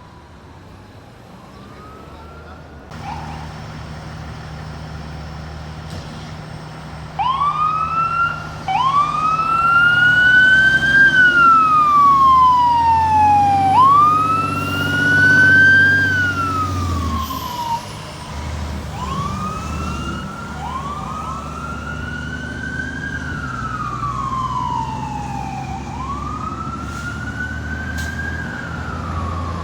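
Fire truck siren wailing in slow rising and falling sweeps, two siren tones slightly out of step, over the truck's engine drone. It grows loud about seven seconds in, is loudest mid-way, then eases off as the truck goes by.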